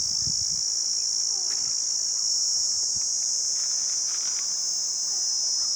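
Steady high-pitched chorus of insects, such as crickets or cicadas, shrilling without a break.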